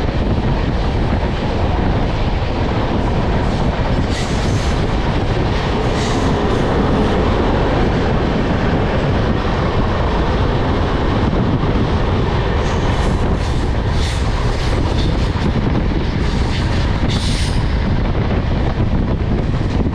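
Passenger train running at speed, heard from a camera mounted on the outside of a coach: a steady, loud rumble of wheels on rail mixed with rushing air, with a few brief higher-pitched hisses or squeals along the way.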